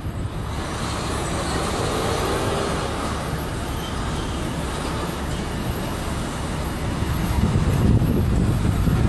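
Street traffic noise: engines of cars and heavy vehicles running and passing, a steady rumble that grows a little louder near the end.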